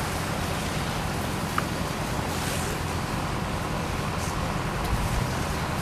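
Cars on fire, burning with a steady rushing noise and a few faint cracks.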